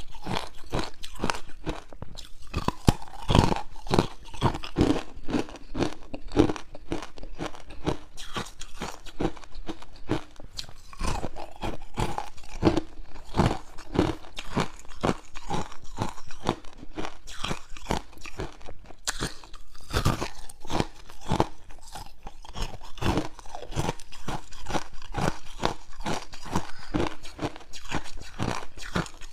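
Hard ice cubes bitten and chewed close to the microphone: a continuous run of loud, sharp crunches, several a second.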